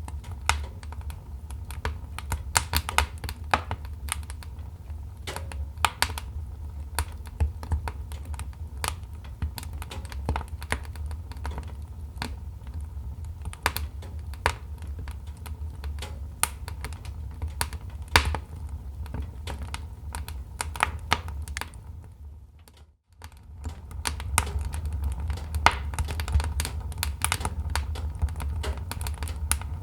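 Wood fire crackling: irregular sharp snaps over a low, steady rumble. The sound fades out briefly about three-quarters of the way through, then resumes.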